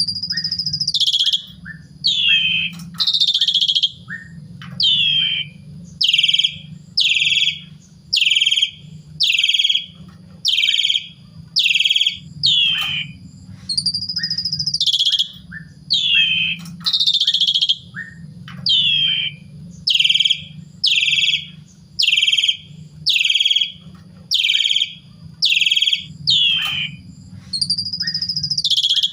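Asian pied myna singing: a run of short downward-sliding whistled notes about one a second, broken now and then by a longer swooping whistle. A steady low hum runs underneath.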